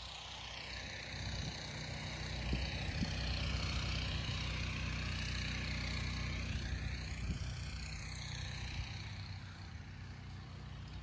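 Pressure washer spray hissing against a shed roof over the steady drone of the machine's engine; the spray swells about a second in and eases off near the end as the wand is worked across the roof to strip lichen.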